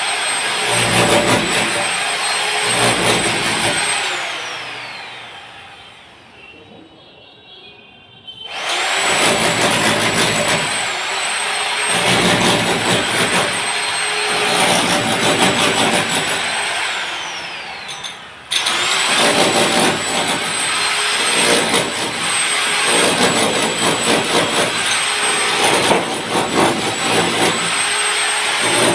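An electric power tool running with a high whine. It is switched off twice, its whine falling as it winds down, and each time it starts again with a sudden jump in level.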